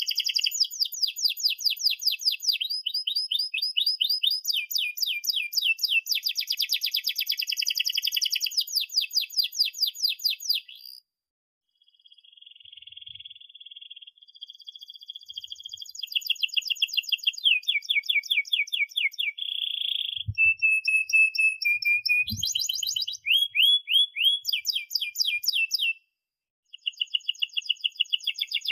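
Domestic canary singing a long rolling song: fast trills of rapidly repeated notes, switching between several phrase types. The song breaks off twice, about eleven seconds in and near the end. Two short low knocks come in the middle.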